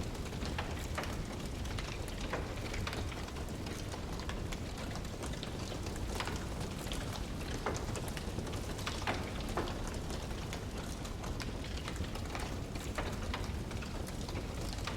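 Wood fire crackling: many small irregular pops and snaps over a steady low rumble.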